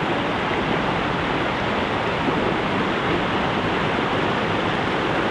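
Waterfall, its falling water rushing in a steady, unbroken wash of noise.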